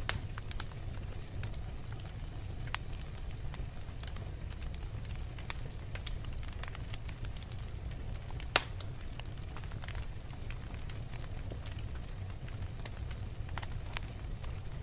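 Wood fire burning in a fireplace: a steady low rumble of the flames with irregular crackles and snaps from the logs, and one loud pop a little past halfway.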